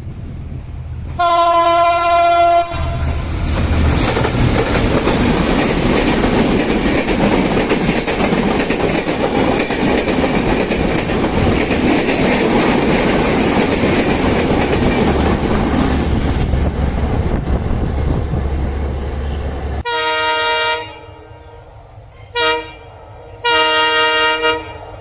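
Bangladesh Railway train horn blowing once, then the train passing close with loud rolling wheel noise for about seventeen seconds. The horn then sounds three more times: a blast, a short toot, and a longer blast.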